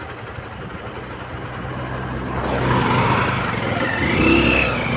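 A motor vehicle engine running and speeding up, growing louder over the second half, with a wavering high tone joining near the end.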